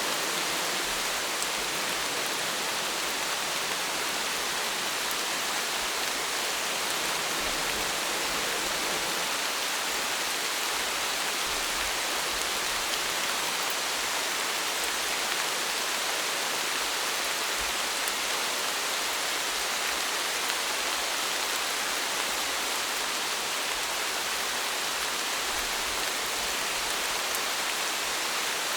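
Steady rainfall: an even hiss of rain, with no change in strength.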